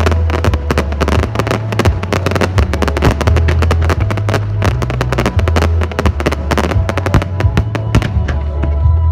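Fireworks bursting and crackling in quick succession over loud music with a steady, pulsing bass line; the cracks thin out near the end.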